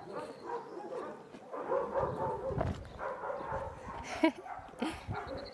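Dogs barking in short repeated barks, with a sharp knock about four seconds in.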